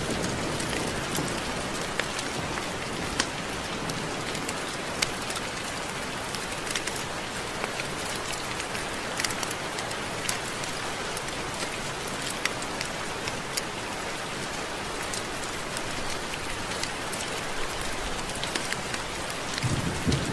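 Steady rain falling, with frequent sharp drop hits scattered through it.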